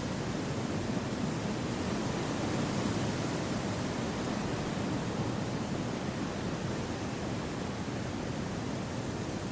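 Steady wind blowing through forest trees: an even, soft noise with most of its weight low down, swelling a little a few seconds in.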